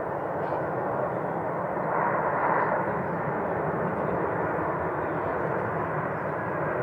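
Jet noise of an arriving Airbus A330-300 airliner: a steady, dense rush that swells about two seconds in and grows slowly louder.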